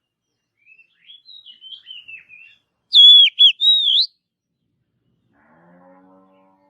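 Oriental magpie-robin (kacer) singing: a soft run of quick warbled notes, then a loud, swooping whistled phrase in two or three parts. A faint low call follows near the end.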